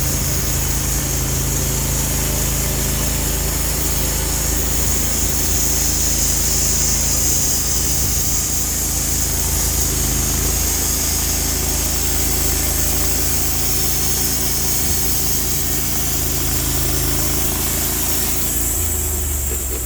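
Sawmill's engine running steadily under load while the saw cuts through a log, with a high hiss over the engine note. About eighteen seconds in the high hiss drops away and the engine note shifts, as the cut ends.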